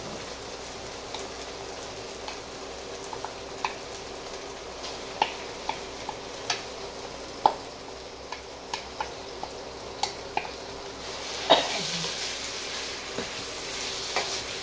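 Sardine and chilli mixture sizzling in a non-stick wok while a wooden spatula stirs it, with short sharp taps of the spatula against the pan and bowl. One louder knock comes about three-quarters of the way through, and the sizzling grows louder after it.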